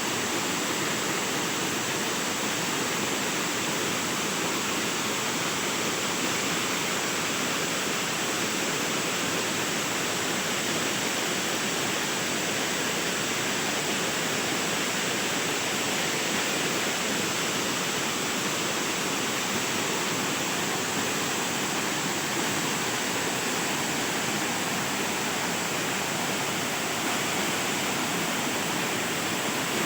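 Waterfall pouring with a steady, unbroken rush of water.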